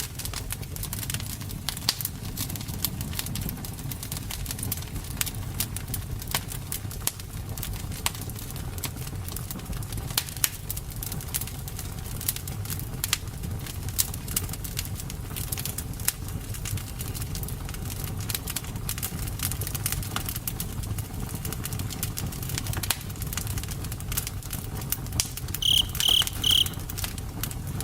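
Campfire crackling: many sharp pops and snaps over a steady low rumble of the burning wood. Near the end a short high chirp of three quick pulses sounds once.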